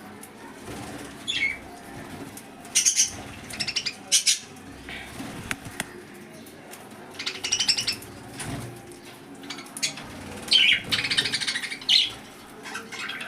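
Lovebirds calling in short, high-pitched bursts, again and again, with a longer run of calls near the end.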